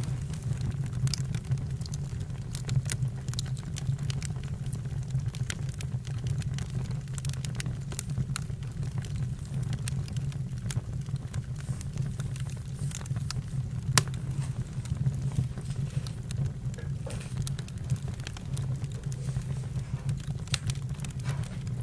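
Campfire crackling: irregular sharp pops and snaps over a steady low rumble, with one louder pop about 14 seconds in.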